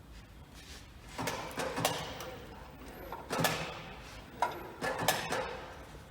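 Irregular knocks and clinks of metal parts and tools being handled, about half a dozen, the loudest near the middle.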